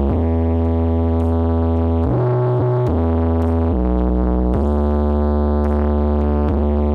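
Loud electronic music with a heavy, deep bass and held synthesizer chords that change every second or two, played through a large carnival sound system.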